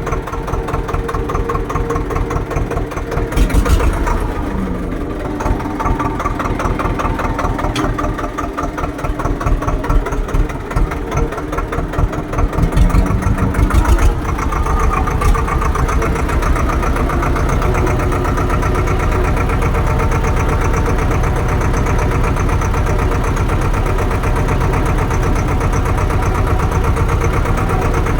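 Tractor diesel engine running, with two short revs (one about four seconds in, one about thirteen seconds in), then holding a steady, slightly higher and fuller running note for the rest of the time.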